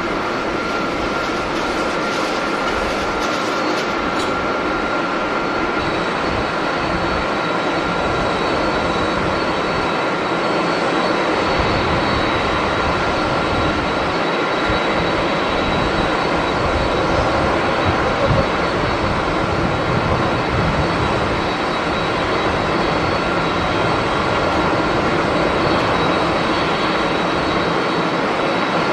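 Jet airliner engines running: a steady roar with a constant high whine.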